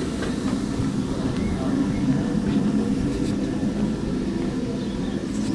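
Railway locomotive engine running steadily, a low hum.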